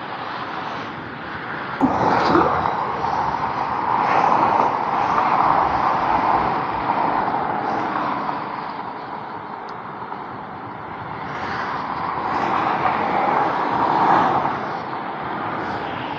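Autobahn traffic passing beneath a road bridge: a continuous rush of tyres and engines that swells and fades in waves as vehicles go by, loudest about two seconds in and again near the end.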